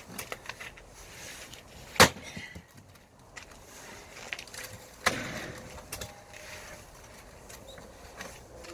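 Two heavy axe blows into a firewood log, about three seconds apart, each a sharp crack of wood, with lighter knocks between them.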